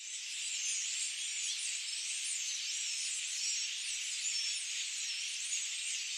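Dense, steady chorus of many overlapping high-pitched chirps and trills from small animals.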